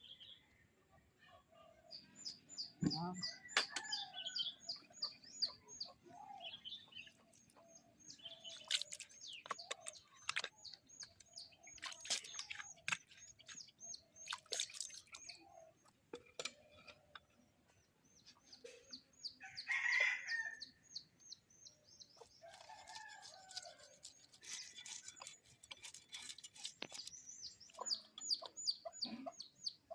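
Small birds chirping in rapid runs of high notes, with chickens clucking and a rooster crowing; the loudest call comes about twenty seconds in. Scattered sharp clicks and knocks sound between the calls.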